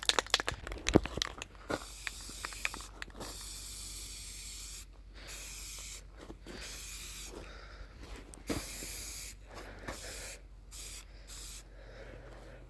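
Aerosol spray-paint can hissing in repeated spells of a second or two with short breaks between them, with a few clicks in the first couple of seconds.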